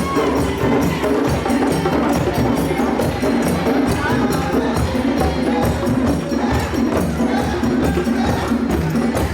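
West African-style drum ensemble, hand drums with bass drums and a bell or shaker, playing a fast, steady parade rhythm.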